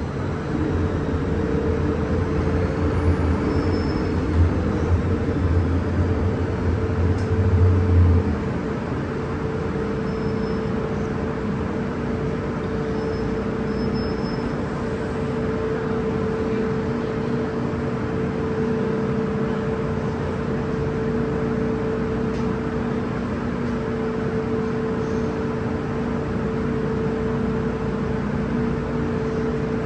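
MTR M-Train electric multiple unit running along the line, heard from on board: a steady rumble of wheels on rail with a constant whine from the traction equipment. A deep hum drops out about eight seconds in.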